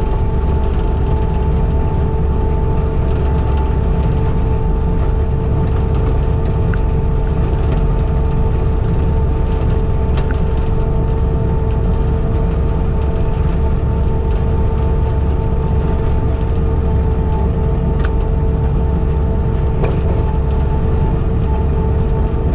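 Diesel skid steer running steadily under load while pushing a grader attachment, heard from inside the cab: a deep drone with a steady whine held over it. A few sharp ticks are scattered through.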